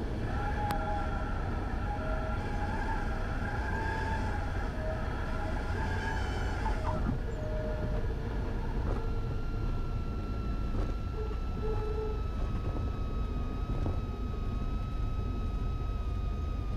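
Cessna 172 Skyhawk engine and propeller droning in the cabin at low power on final approach. High wavering whistle tones sound over it for the first seven seconds, then a steady high whistle from about nine seconds in.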